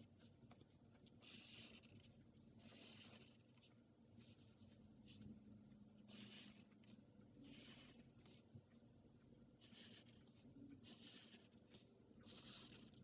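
A pen drawing lines on paper: faint scratchy strokes, some long and some short, with pauses between them.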